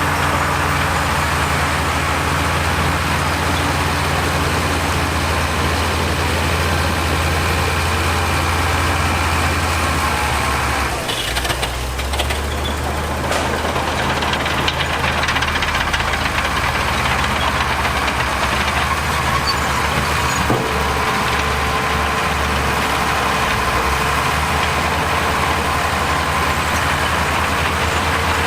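Heavy diesel engine of earthmoving machinery running steadily with a deep hum, its pitch briefly shifting about eleven seconds in.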